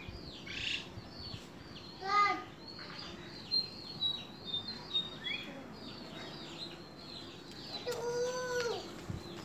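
Small birds chirping over and over in short high notes. A brief, loud voice-like call comes about two seconds in, and a longer held call near the end.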